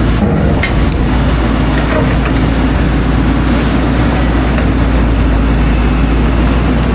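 Loud, steady road-vehicle noise with a constant low rumble and no distinct events.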